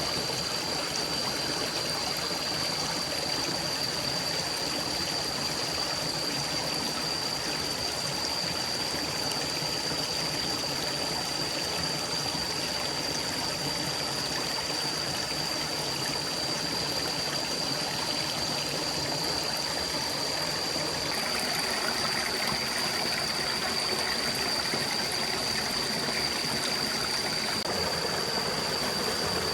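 Forest stream flowing steadily, a continuous rushing and trickling of water, with a thin steady high whine running through it. About two-thirds of the way through the rushing swells a little louder.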